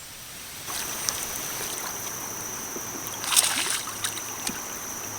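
Steady high-pitched insect drone over an even wash of river water, with a short splashy burst about three seconds in.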